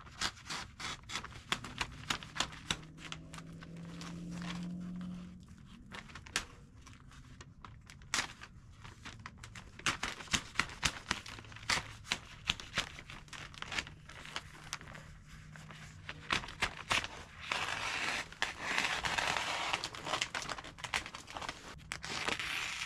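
Roofing felt being handled and cut with a PVC cutter: crinkling and tearing with many sharp clicks and crackles, and a longer stretch of steady rustling near the end.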